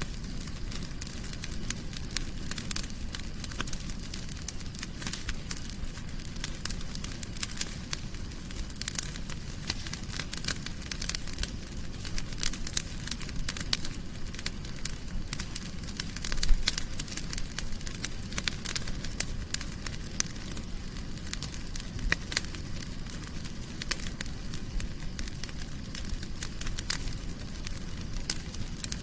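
Wood fire crackling in a fireplace: many small sharp pops and snaps over a steady low rumble of the flames, with one louder pop a little past halfway through.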